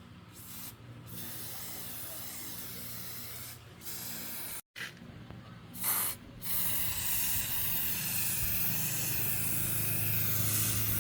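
Compressed-air spray gun hissing in bursts while spraying, with short pauses between passes, over a steady low hum. The hiss breaks off briefly just before the middle, then runs more steadily and louder through the second half.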